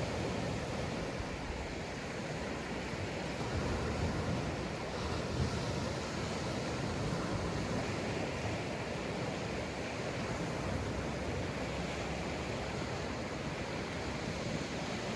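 Sea waves breaking and washing on a sandy beach: a steady surf wash that swells and eases gently.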